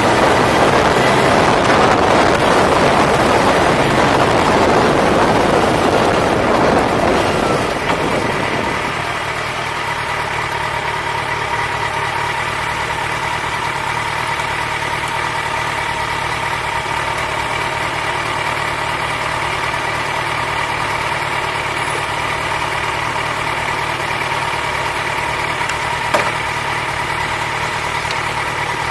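Motorcycle engine idling steadily. A louder rushing noise over the first several seconds dies away about eight seconds in, and there is a single short click near the end.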